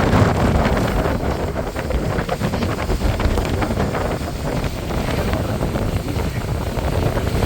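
Wind buffeting the microphone aboard a boat under way, a steady rumbling rush with frequent gusty thumps.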